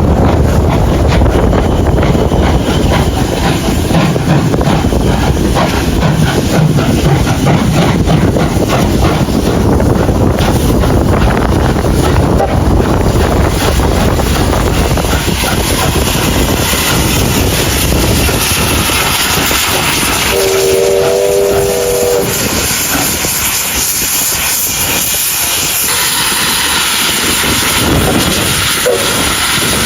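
Train running, with a loud steady rush of noise and hiss, and one short whistle of a few notes sounding together, about a second and a half long, around two-thirds of the way through.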